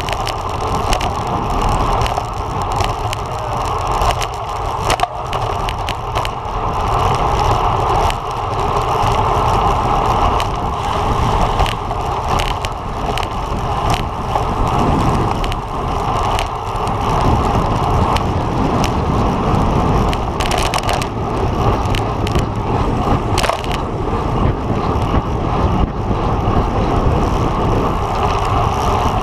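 Steady rush of wind and road rumble from a road bike riding at race speed, with scattered light clicks and rattles.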